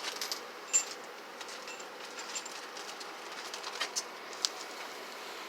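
Quiet workshop background with a few scattered light clicks and taps, and some faint, brief high chirps.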